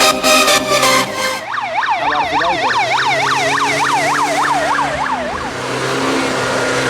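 Music cuts off about a second and a half in. Then an emergency-vehicle siren sounds in a fast yelp of about three or four wails a second for roughly four seconds, over a low steady hum. After it comes a steady rushing noise.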